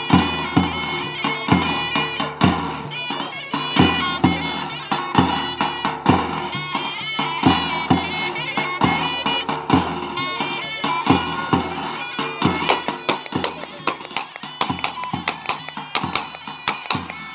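Halay folk dance music: a loud, reedy wind instrument plays a melody over steady drum strokes, and the drum beats come faster from about twelve seconds in.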